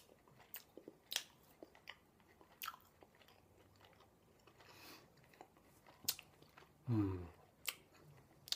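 Close-up chewing of food, with wet smacking clicks of the mouth at irregular intervals. A short hum from the voice with falling pitch comes about seven seconds in.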